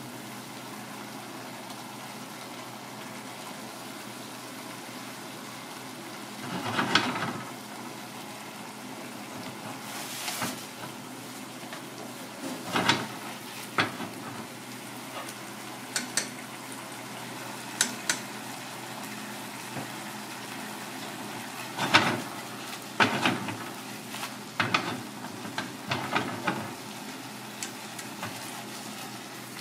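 Mackerel pike and vegetables sizzling and bubbling steadily in a small cast-iron pan, with chopsticks clicking against the pan now and then as the food is turned.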